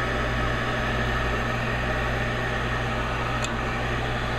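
High-efficiency gas furnace's inducer fan motor running with a steady hum and whir, during the ignition sequence as the glow coil heats ahead of the flame. A faint tick about three and a half seconds in.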